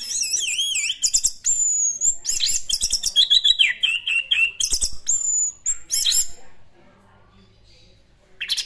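Orange-headed thrush in full song: a fast, continuous run of varied high whistles and warbling phrases for about six seconds, then a pause and one short phrase near the end.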